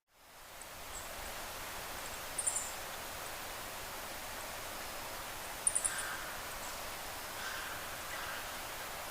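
Forest ambience: a steady hiss with small birds calling, fading in at the start. There are two quick bursts of three or four very high chirps, about three seconds apart, and a few softer, lower calls near the end.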